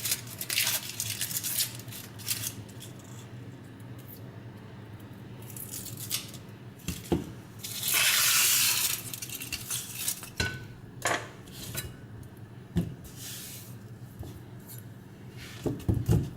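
Dry onion skin crackling and rustling as it is peeled with a paring knife, with a louder rustle of about a second near the middle and several short, sharp knocks of the knife and onion in between.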